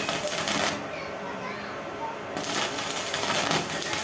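Stick-welding arc crackling and hissing in two spells: the arc stops under a second in and strikes again about two and a half seconds in.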